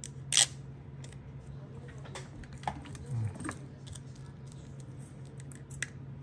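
Scattered small clicks and taps from handling a part-assembled iPhone and small tools on a repair bench, with one louder brief scrape or rustle about half a second in, over a steady low hum.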